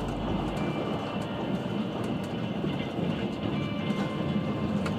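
Steady running noise of a Trans-Siberian Railway passenger carriage on the move, heard from inside the car: a continuous low rumble and rattle with a few faint clicks. A low hum drops out in the first second.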